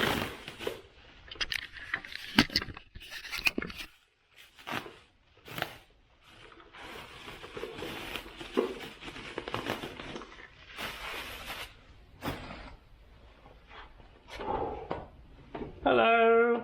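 Hands-on workshop work: scrapes, clicks and knocks of winch parts and tools being handled, with short quiet gaps. Near the end comes a short, loud sound with a steady pitch.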